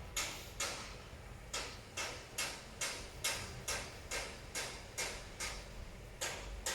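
Repeated short scrubbing strokes by hand, about two a second, with two brief pauses.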